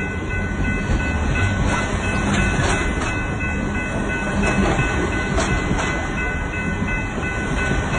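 Canadian Pacific train rolling past: a steady rumble of wheels on the rails with scattered sharp clicks and a thin, steady high tone above it.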